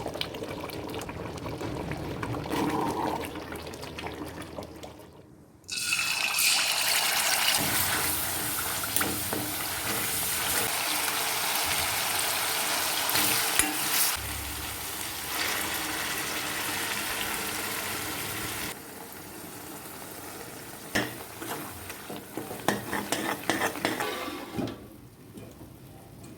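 Cooking in a pan for chicken curry: a loud, even sizzle of frying starts suddenly about six seconds in and runs to about nineteen seconds. After that it turns quieter, with scattered clicks and scrapes of stirring.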